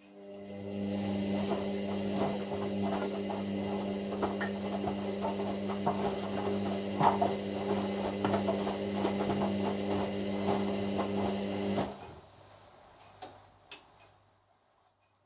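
Hoover washer dryer's drum motor turning the drum with a steady whine for about twelve seconds while the laundry tumbles and knocks inside. It stops abruptly, and two sharp clicks follow.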